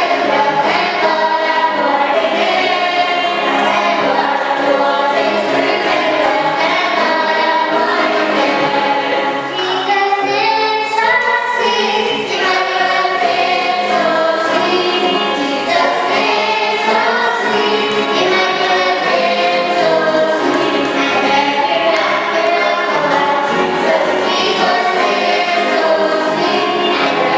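A choir singing a hymn with several voices together, steady throughout.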